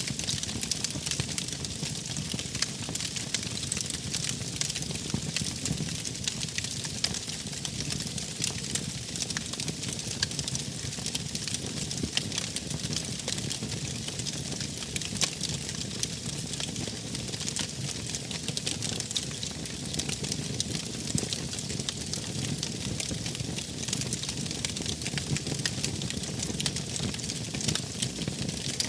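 Wood campfire burning, with dense, irregular crackles and pops over a steady low rumble.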